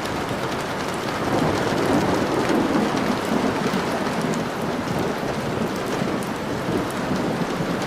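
Steady heavy rain falling, with a low rumble of thunder that swells about a second and a half in and fades away over the next few seconds.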